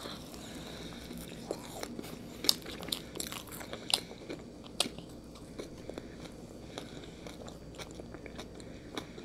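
People chewing Peeps marshmallow bunnies close to the microphone, with irregular wet mouth clicks.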